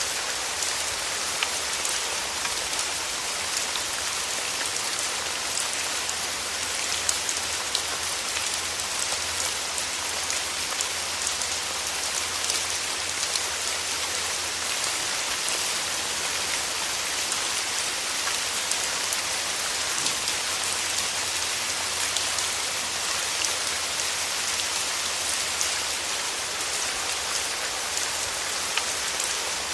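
Wood fire burning in a fireplace: a steady hiss dotted with many small, sharp crackles and pops.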